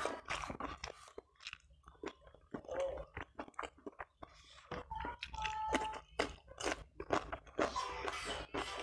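A person chewing and crunching food close to a clip-on microphone, in many short crisp crunches.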